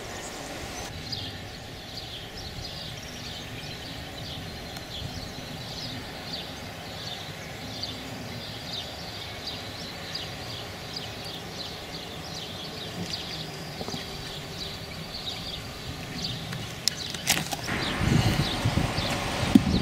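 Small birds chirping repeatedly in high, short notes. Near the end comes a sharp crack of a driver striking a golf ball off the tee, followed by a louder rush of rustling, wind-like noise.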